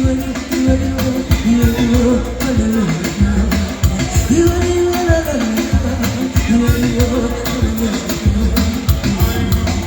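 Live band music: a steady drum beat under a held melody line that bends in pitch.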